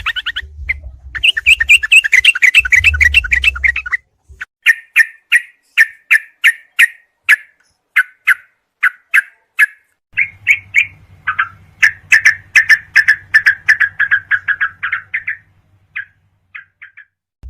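Recorded song of a yellow-vented bulbul (trucukan), played as a training track for caged birds. It opens with a fast chattering trill, then gives a string of short, sharp chirps about two a second. Near the middle these turn into a quicker run of notes over a faint low hum.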